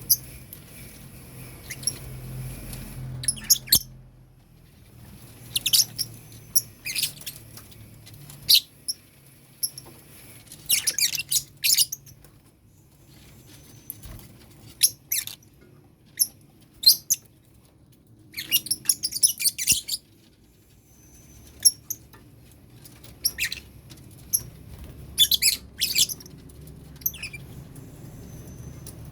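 Lovebirds calling in short, high-pitched chirps that come in irregular clusters, with a faint low hum underneath.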